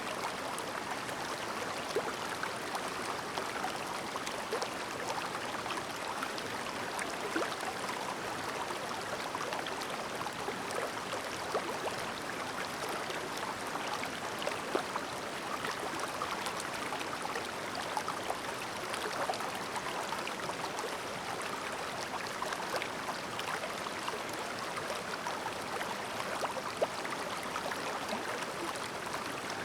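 Shallow, clear mountain stream babbling over stones: a steady rush of water with many small splashes and ticks of bubbling scattered through it.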